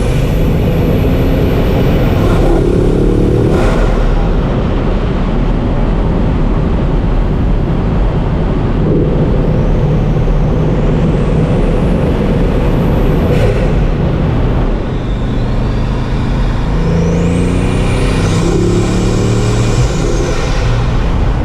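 Bugatti Mistral's 8.0-litre quad-turbocharged W16 engine pulling hard through the gears. Three times a high whine climbs steeply along with the engine note, and the first two cut off suddenly at the shifts.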